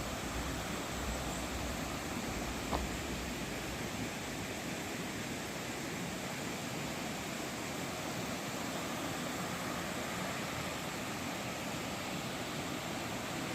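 Steady rushing of a mountain valley stream, with one brief click about three seconds in.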